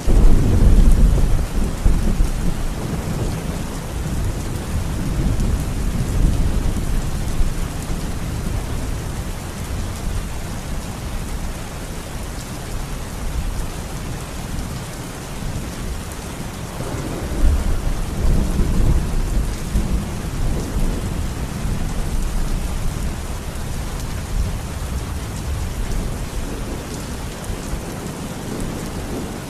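Steady rain falling, with low rolling thunder that swells twice: once at the very start and again about seventeen seconds in.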